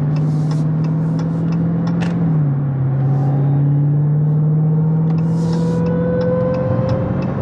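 Car engine heard from inside the cabin, pulling onto a highway. Its note drops about two seconds in, then climbs steadily as the car speeds up.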